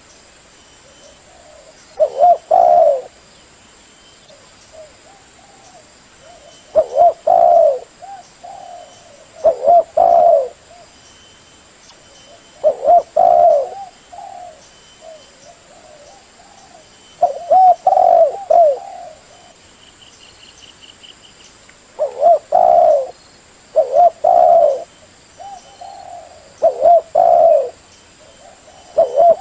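Spotted dove (tekukur) cooing: short phrases of a few low coos repeated every few seconds, with softer coos in between.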